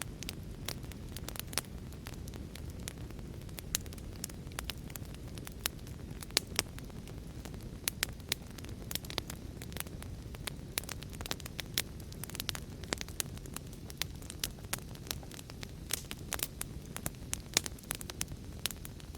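Fire crackling: frequent irregular sharp pops and snaps over a steady low rumble of burning.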